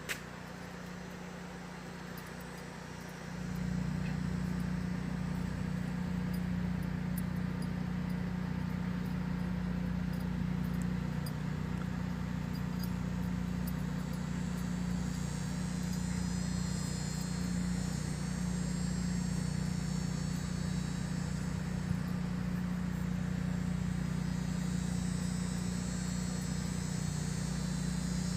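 Steady low mechanical hum that gets louder about three seconds in and then holds; a high insect trill joins about halfway through.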